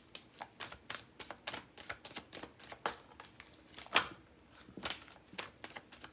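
Tarot cards being shuffled and handled: an irregular run of quick, light clicks and flicks, several a second, with one louder snap about four seconds in.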